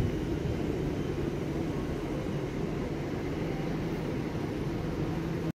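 Electric regional trains moving through a large station: a steady low rumble with a faint hum. A brief total dropout breaks it near the end.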